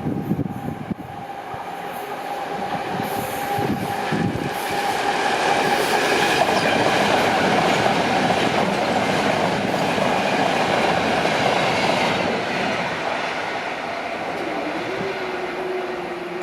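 A light-engine convoy of eight Class 66 diesel locomotives passing, their EMD two-stroke diesel engines running with wheel-on-rail noise. It grows loudest about halfway through as the locomotives go by, then eases off.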